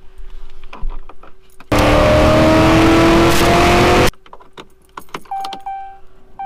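A few light clicks and rattles. Then, about two seconds in, the Vortech-supercharged 6.2 L LT1 V8 of a 2017 Camaro SS runs loud at full throttle on a chassis dyno, its pitch rising steadily, before it cuts off abruptly. Near the end a steady electronic chime tone sounds in the car's cabin.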